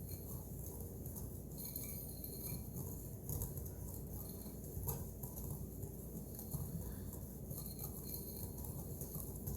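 Wire whisk stirring a dry powder of washing soda and citric acid in a bowl: faint, soft scratchy rustling with a few light clicks.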